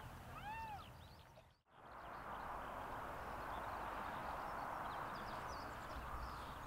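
Birds calling: a few arched whistled notes in the first second, then, after a brief dropout, a steady hiss with scattered short high chirps.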